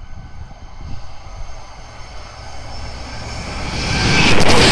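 First TransPennine Express Class 185 diesel multiple unit approaching at speed. Its noise builds from about three seconds in and is loud by the end as it passes close by. Wind buffets the microphone throughout.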